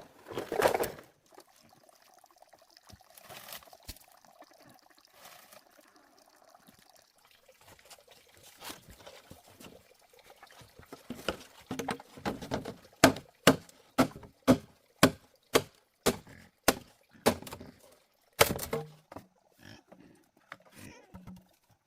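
A steady series of sharp knocks or strikes, about two a second, beginning about halfway through, after a quieter stretch of faint irregular noise.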